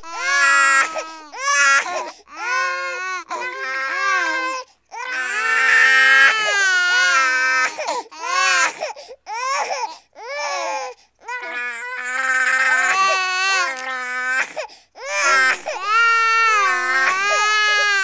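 A baby crying: a string of wails, each about one to a few seconds long with the pitch bending up and down, broken by short gaps for breath.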